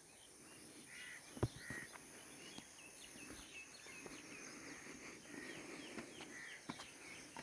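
Faint outdoor ambience of small birds chirping repeatedly, with a few soft knocks, the sharpest about a second and a half in, over a steady high-pitched whine.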